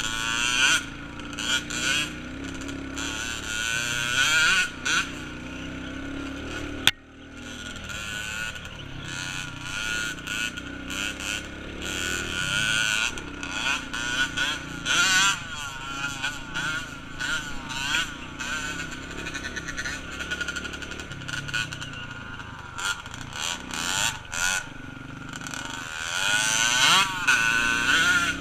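Small off-road vehicle engine running and being revved over and over, its pitch rising and falling as the throttle opens and closes. There is a sharp click and a short dip about seven seconds in.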